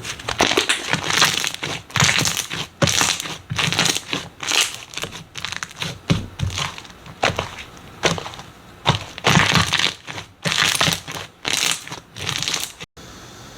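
Crunchy slime being squeezed and pressed, crackling and crunching in repeated short spells; it cuts off abruptly near the end.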